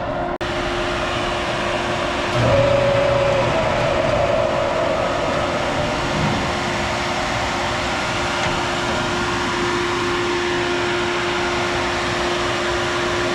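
A heavy diesel vehicle's engine running steadily, with a steady whine over it, briefly louder about two and a half seconds in.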